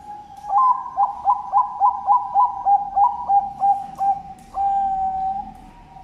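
Zebra dove (Bangkok perkutut) cooing: a run of about a dozen quick, clipped coos, a few a second, ending in one long drawn-out note, over a fainter steady coo.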